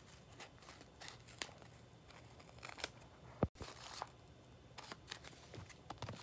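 Paper being handled and squeezed: faint crinkling and rustling with scattered ticks, and one sharp click about three and a half seconds in.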